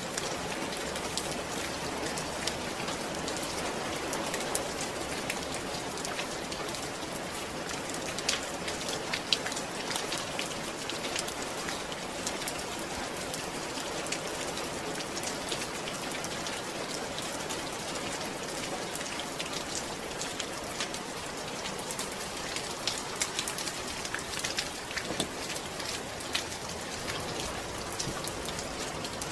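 Steady rain falling, with many distinct drops ticking sharply among the even patter.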